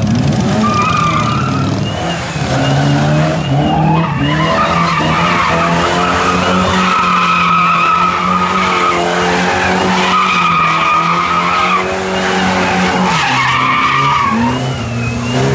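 A car's tyres squealing in several long screeches during wheelspin, over an engine held at steady high revs, as in a burnout or donut.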